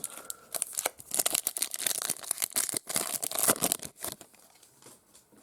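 Foil trading-card pack wrapper being torn open and crinkled by hand, a dense crackling rustle that dies down about four seconds in.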